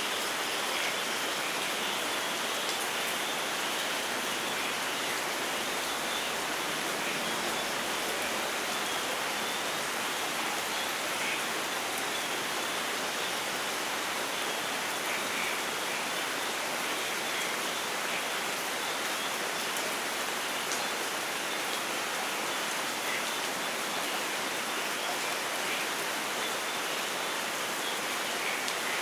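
Steady rainfall: an even hiss with scattered small drop sounds.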